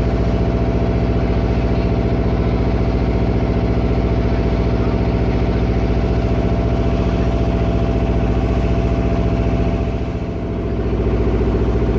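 Engine of a klotok river taxi boat running steadily, its note dipping briefly about ten seconds in and then picking up again.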